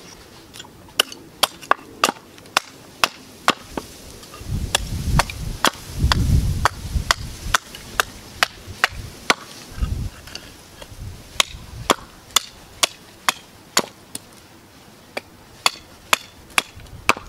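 Hatchet blade chopping into a piece of hardwood on a chopping block to shape a stake: a steady run of sharp chopping knocks, about two to three a second. A low rumble sits under the strokes for a couple of seconds around the middle.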